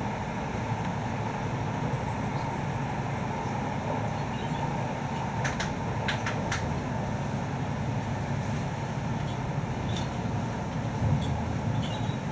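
Steady rolling rumble inside a passenger car of a moving InterCity train. A few sharp clicks come about halfway through, and a louder low bump near the end.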